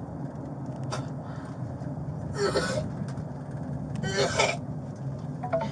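A woman retching, two short forced heaves about two seconds apart, over a steady low hum.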